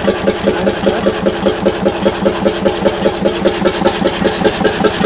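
Levahn two-stroke diesel boat engine (10 litres, 28 hp) running steadily, with an even, pulsing beat of roughly five strokes a second.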